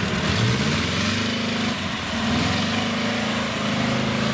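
Off-road competition car's engine revving under load as it drives through a deep obstacle where it was expected to sink. The pitch climbs between one and two seconds in and then holds high.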